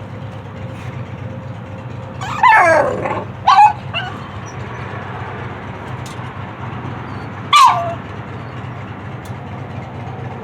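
A dog barking: three short yelping barks that fall in pitch, two close together a few seconds in and a third about eight seconds in.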